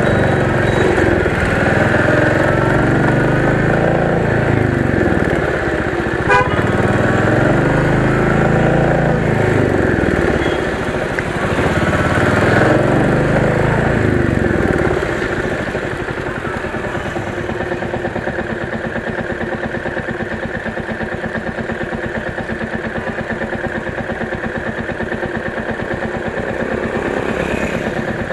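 Motorcycle engine running on the move, rising and falling in pitch, with a brief horn beep about six seconds in. After about fifteen seconds it settles, a little quieter, to a steady idle.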